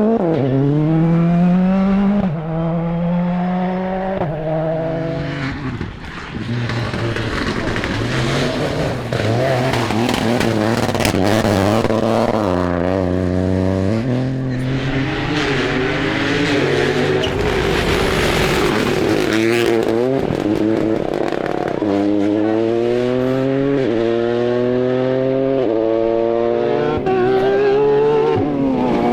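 Rally cars accelerating hard at full throttle, the engine pitch climbing and dropping back with each quick upshift through the gears, with a stretch of noisier tyre and engine sound in the middle.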